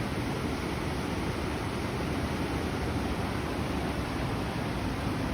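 Steady rushing noise, even and unbroken, heaviest in the low range.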